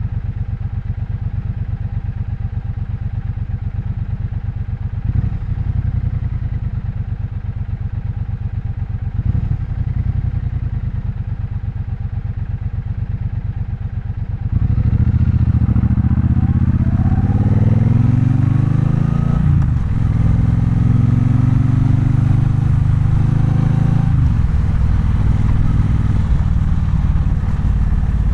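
Triumph Bonneville Bobber's 1200 cc parallel-twin engine, a low, steady rumble at first, then about halfway it gets louder as the bike pulls away, the pitch rising and dropping back several times as it shifts up through the gears.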